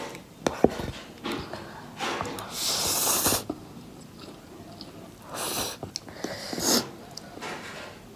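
Close-up eating sounds of spicy Current instant noodles: chewing with several noisy slurps, the longest about two to three seconds in, and a sharp click just under a second in.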